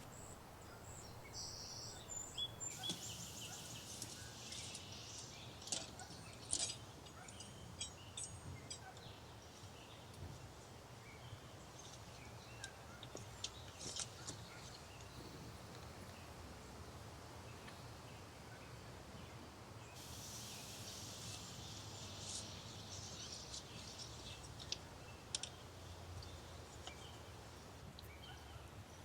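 Faint forest ambience: birds chirping in short scattered clusters over a low steady background hum.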